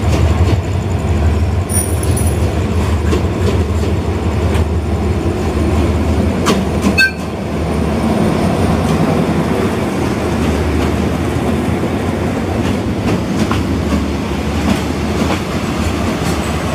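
Hitachi diesel-electric locomotive of an express train running past close by as it pulls into the platform, its engine's low drone giving way to the coaches' wheels rolling over the rail joints. A brief high squeal comes about seven seconds in, after which the sound is a little quieter.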